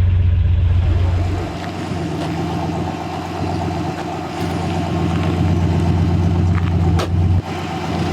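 Turbo LS V8 engine idling, loud for the first second and a half and then settling to a lower, steady idle. One sharp click about seven seconds in.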